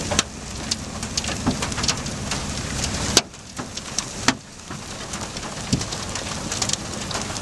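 Raindrops tapping irregularly on a vehicle over a steady rushing noise. A low rumble under it drops away about three seconds in.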